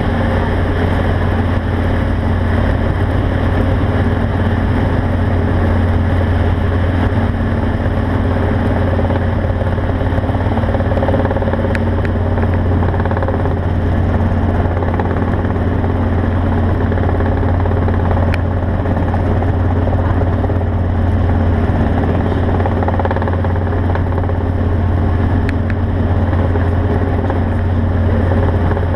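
A vehicle engine running at a steady speed, giving a constant low drone with no change in pitch, and a few faint clicks over it.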